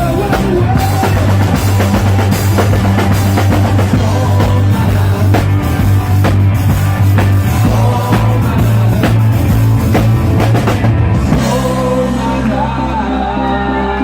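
Live band playing an upbeat song with drum kit, bass and singing. About eleven seconds in the drumming stops and a held chord rings on as the song winds down.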